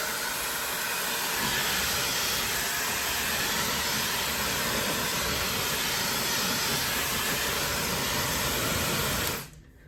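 High-speed hair dryer with a 110,000 rpm motor blowing on its hot setting: a steady, even rush of air that cuts off suddenly near the end when it is switched off.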